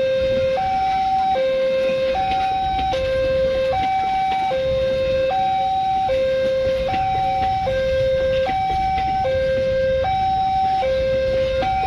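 Railway level-crossing warning alarm sounding a steady two-tone electronic signal, switching between a low and a higher tone about every 0.8 seconds, over a low rumble.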